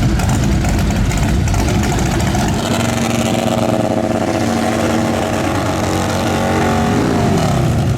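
A motorcycle engine revving. It is held at a steady pitch for several seconds, then falls away near the end.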